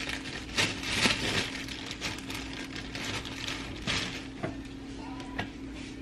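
Kitchen handling sounds: scattered knocks, clinks and scrapes of dishes and utensils during breakfast cooking, over a steady low hum.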